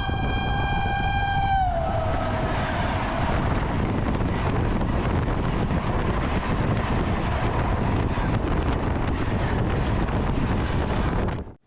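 WDG-3A diesel locomotive's air horn holding one note that sags in pitch and dies away about two seconds in, followed by the steady rumble of the running train, which cuts off abruptly near the end.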